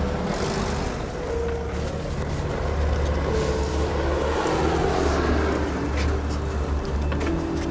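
A car engine running steadily at low revs, with music over it and a few short clicks near the end.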